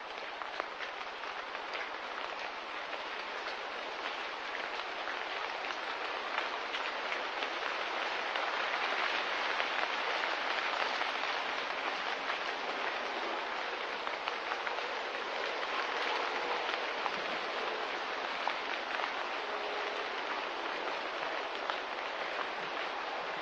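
Steady hiss-like outdoor ambience with faint scattered ticks, swelling a little in the middle.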